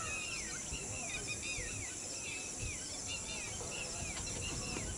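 Birds calling over and over in short arching chirps, several a second, over a steady high insect drone.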